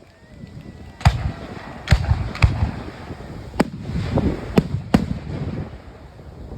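Fireworks bursting: six sharp bangs over about four seconds, with low rumble between them.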